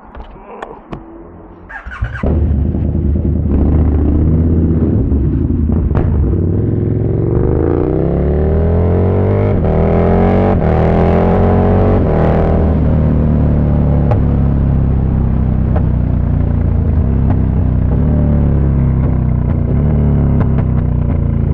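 KTM 1290 Super Duke R's V-twin running loud through an Austin Racing V3 150mm exhaust, coming in suddenly about two seconds in. About midway its pitch climbs steadily for around five seconds, then drops back to a steady run.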